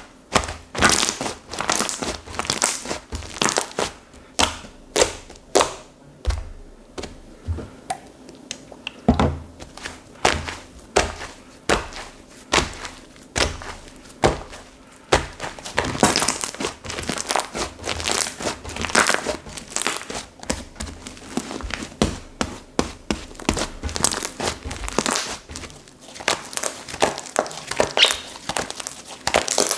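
Slime being squeezed, pressed and stretched by hand, giving sharp crackling clicks and pops at an irregular pace, some in quick clusters.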